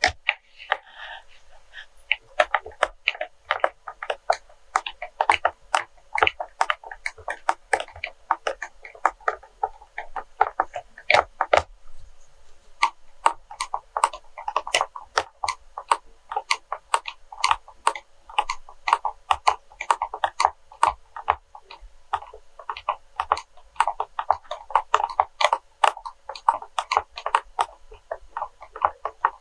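Quick, irregular tapping and clicking on wax melts, several light taps a second with an occasional sharper one.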